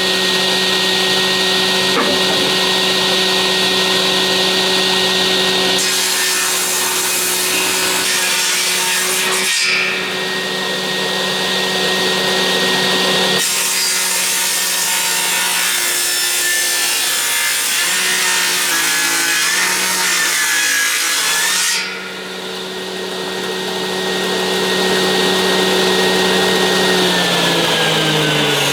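Electric power tool working timber: a steady motor hum under a dense cutting or abrading noise that changes several times. Near the end the motor's pitch falls as it winds down.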